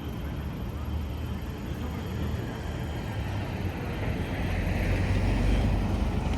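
City street traffic: a steady low rumble of vehicles, swelling as a vehicle passes about five seconds in with rising engine and tyre noise.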